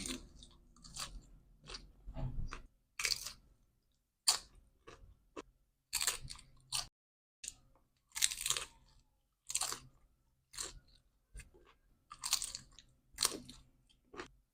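Close-up crunching of tortilla chips being chewed, in a dozen or so irregular crisp crunches.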